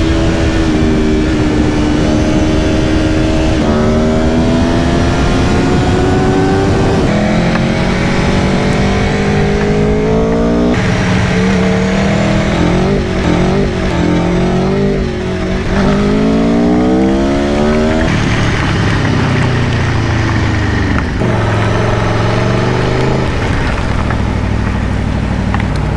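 Aprilia Tuono V4 Factory's V4 engine accelerating hard through the gears, its pitch climbing and then dropping at each upshift, several times over.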